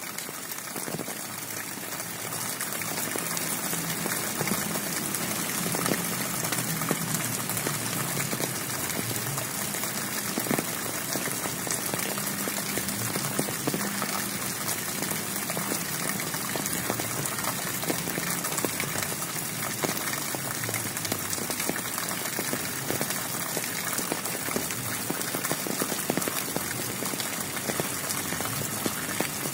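Steady heavy rain, a dense even hiss with many small drop ticks, building up over the first couple of seconds and then holding constant.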